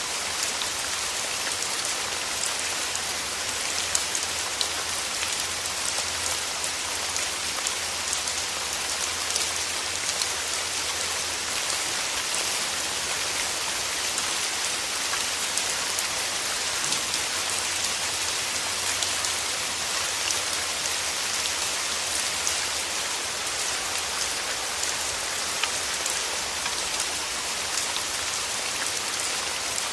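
Steady rain falling on rose petals, a dense even patter with many small drop ticks and an occasional louder drop.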